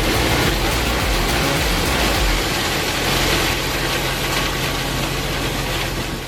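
Large industrial wood chipper running under load: a heavy engine hum under a dense, steady grinding noise as wood is fed in and chipped.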